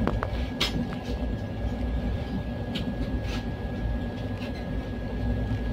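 Steady rumble of a passenger train coach running along the track, heard from inside the coach, with a few sharp clicks and rattles from the running gear.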